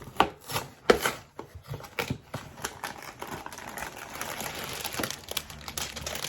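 A cardboard Lego box being opened and the plastic parts bags inside crinkling as they are handled. There are a few sharp clicks and tears in the first two seconds, then denser, steadier crinkling from about three seconds in.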